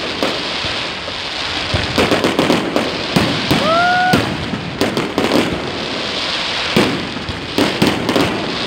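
Fireworks display: a steady crackling hiss with many sharp bangs of bursting shells throughout, and a short rising whistle about three and a half seconds in.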